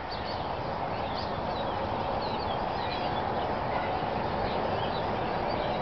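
A large flock of blackbirds calling together in trees: a steady, dense chatter of many overlapping chirps.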